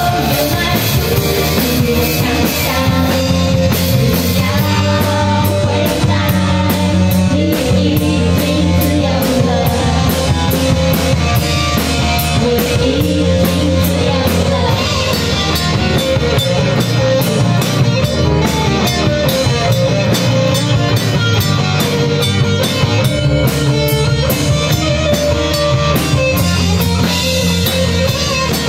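Live band playing a rock song: a drum kit keeping a steady beat, with guitar and a voice singing.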